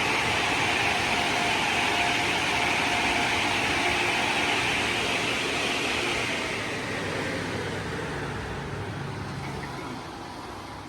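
LaserWash 360 Plus touchless automatic car wash working over the car, a steady rushing noise that fades away over the last few seconds.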